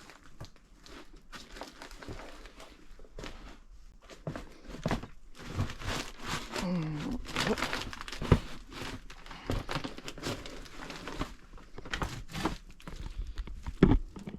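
Paper and debris crinkling and crunching as someone moves through a room piled with boxes and old newspapers, with scattered clicks and two sharp knocks.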